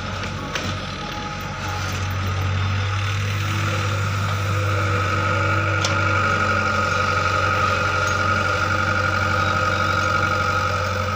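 Heavy vehicle engine running steadily. It grows louder about two seconds in, and a steady high whine joins it from about four seconds in.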